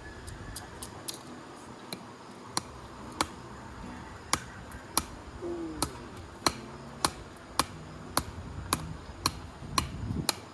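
Batoning firewood: a wooden baton striking the spine of a knife to drive it down through a log, a steady run of sharp knocks a little under two a second.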